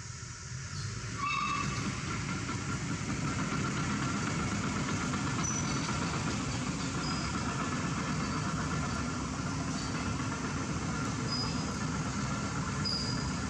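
A steady rumbling noise, like vehicle traffic, that swells about a second in and then holds, with a few short faint high chirps over it.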